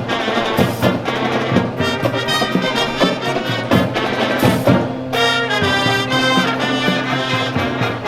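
Marching band playing a march: brass over regular drum hits, moving into long held brass chords about five seconds in.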